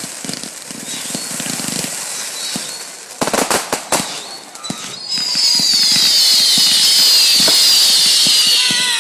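Fireworks going off at a display: a quick cluster of sharp cracks about three seconds in, then, from about halfway, a loud shrill hissing with many high whistles falling in pitch together.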